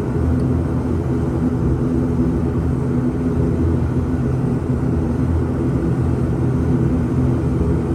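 Steady drone of an ATR 72-600's twin turboprop engines and propellers heard inside the passenger cabin. Several low, even tones sit over a rushing noise.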